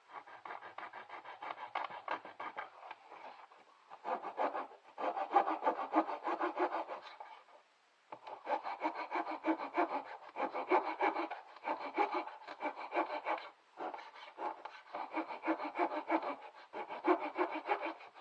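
Hand-sawing with a small, dull cutting blade: quick back-and-forth strokes through a piece, probably wood, in four spells with short pauses between. The blade is not very sharp.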